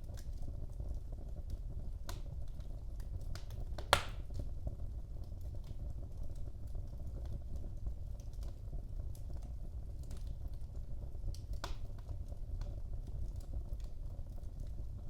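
Wood fire burning in a fireplace: a steady low rumble of the flames with scattered sharp crackles, and one loud pop about four seconds in.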